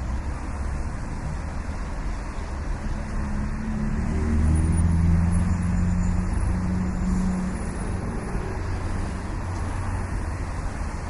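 Main street traffic: a steady rumble of cars. One vehicle's engine grows louder and passes close between about four and seven seconds in.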